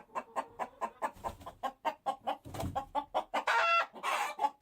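Chicken clucking in a quick run of short notes, with two longer squawking calls near the end.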